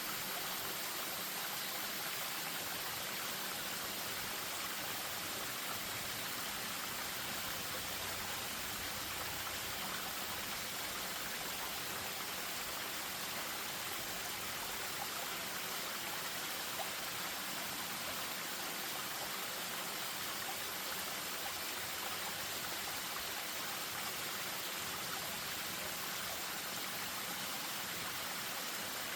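Spring-fed stream running over a small waterfall: a steady rush of falling and flowing water.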